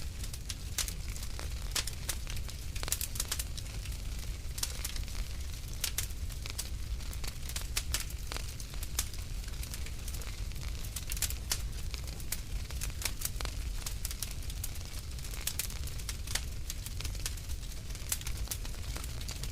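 Wood fire in a fireplace crackling and popping irregularly over a steady low rumble of the flames.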